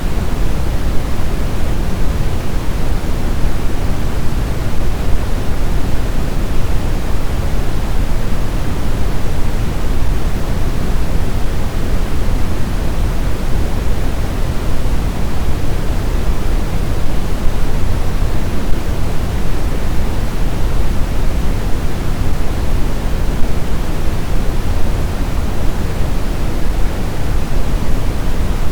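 Snowstorm wind as a steady, dense rush of noise, heaviest in the low end, with no distinct gusts or howling tones.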